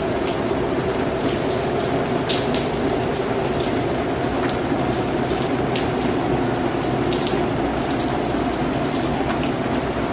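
Steady rain falling, with scattered individual drips over a constant dense patter.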